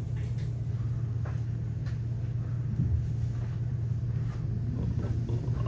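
Tram running, heard from inside the car: a steady low rumble with a few faint clicks. Near the end a rising whine begins as the tram picks up speed.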